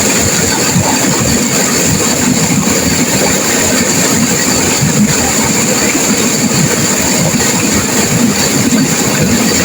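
River water rushing and crashing through rapids: a loud, steady, unbroken roar of turbulent water.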